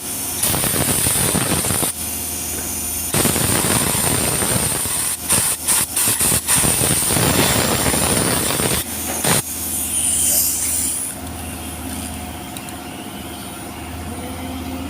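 Compressed-air blow gun hissing in long blasts and a quick run of short bursts, blowing out a mass airflow sensor to clean it. The blasts stop about nine seconds in, leaving a steady machine hum.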